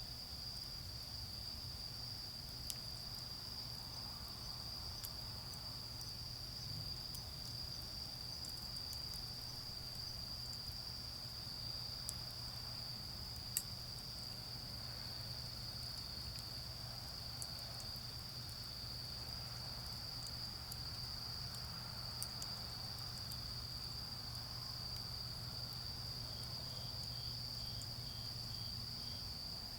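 Autumn crickets singing in a steady, unbroken high-pitched trill, with a second faint pulsing insect call near the end. Small scattered crackles come from a charcoal fire, with one sharper pop about halfway through. A low steady hum of distant road traffic runs underneath.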